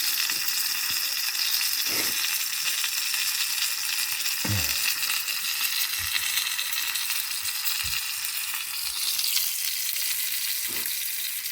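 Sausages frying in a pan, a steady sizzle.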